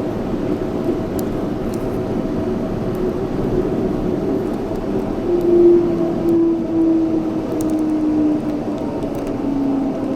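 Yurikamome 7300-series rubber-tyred automated guideway train running, a steady rumble with a few steady tones. About halfway through, a motor whine comes in and falls in pitch as the train slows.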